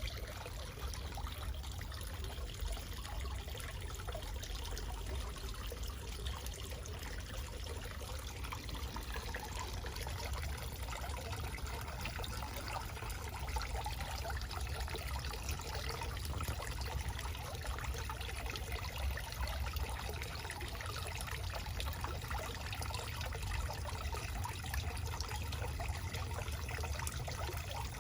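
Backyard waterfall: water trickling and splashing steadily and evenly, over a steady low rumble.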